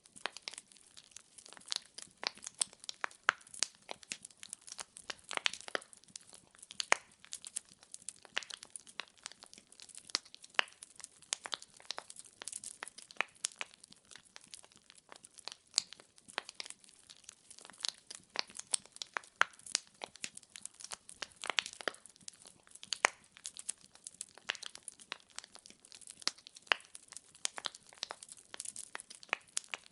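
Burning wood in a fireplace crackling, with frequent sharp pops and snaps of varying loudness over a faint hiss.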